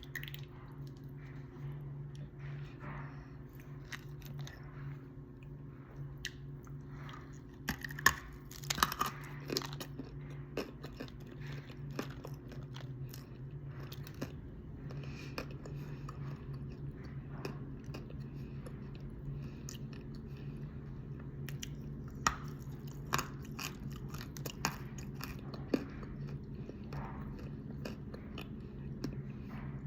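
Calaba chalk (edible clay) being bitten and chewed: scattered dry crunches and clicks, thickest about eight to ten seconds in and again a little past twenty seconds, over a steady low hum.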